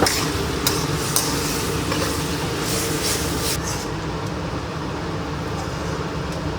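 Steady running noise of a motor vehicle on the move, an even engine hum with no change in pitch.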